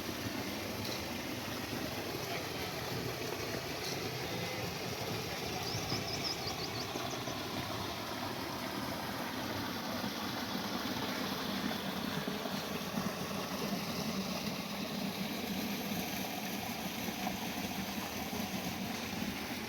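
Old Ruston Hornsby 35 hp stationary diesel engine running steadily at its working speed.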